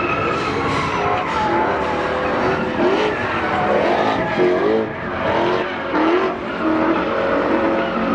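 Pickup truck doing a burnout: the engine revs up and down while the tyres squeal and skid against the pavement.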